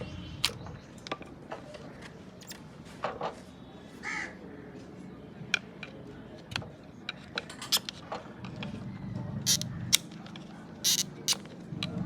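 Scattered sharp clicks and metal knocks of hand tools at work on a car, with a crow cawing a few times; a low hum comes in about two-thirds of the way through.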